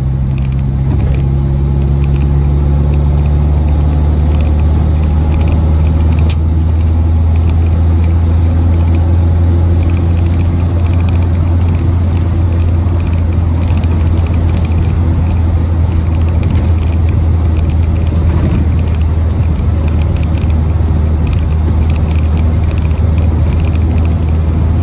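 MG Midget 1500's Triumph 1493 cc four-cylinder engine running steadily while the car drives along a road, heard from inside the cabin with tyre and road noise.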